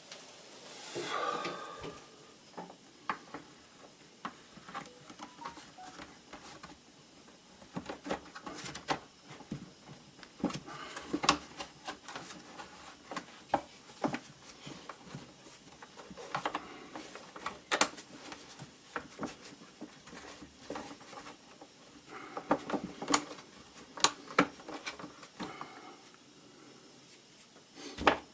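Plastic parts of a pressure washer's casing being handled and fitted together: scattered clicks, knocks and rubbing, irregular, with a brief louder rustle about a second in.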